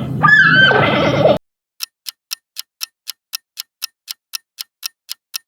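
A giant panda calling, a run of pitched cries that rise and fall, cut off sharply about a second and a half in. After a brief pause, a countdown timer ticks steadily, about four ticks a second.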